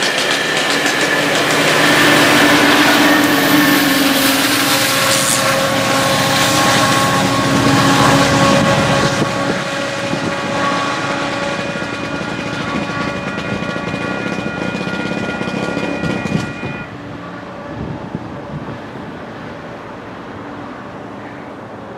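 GO Transit commuter trains passing: the diesel locomotive running and the railcars rolling over the rails, loudest for the first several seconds, with steady tones in the train noise. About three-quarters of the way through the high end drops away suddenly, leaving quieter wind on the microphone.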